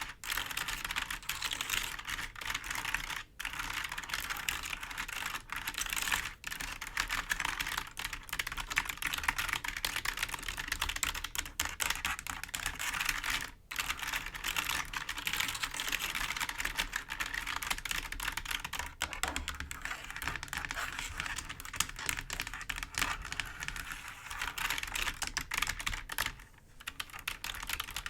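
Fingers tapping and scratching on a clicky computer keyboard: a dense, rapid stream of key clicks and rattles with a few brief pauses.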